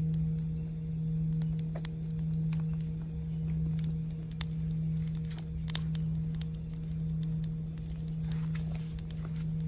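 A singing bowl's low, steady hum, swelling and fading slowly about once every second and a half, over the scattered sharp crackles of a campfire.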